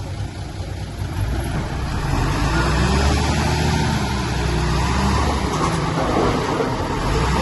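Heavy earthmoving machine's diesel engine running, revving up about a second in and holding louder and higher from there on.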